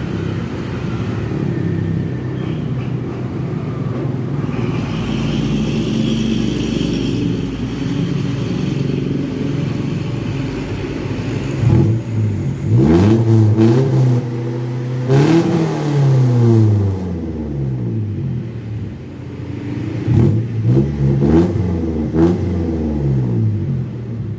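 Suzuki Futura's engine running at idle through an HKS racing exhaust, then revved hard several times about halfway through, the pitch rising and falling with each blip, and revved again in a shorter run a few seconds before the end.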